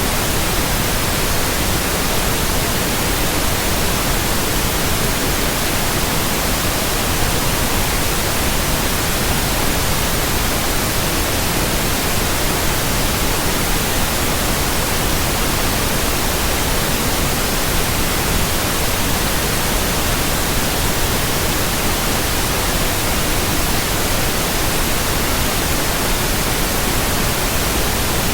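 Pure white noise: a steady, unchanging hiss spread evenly across all pitches, with no breaks or events.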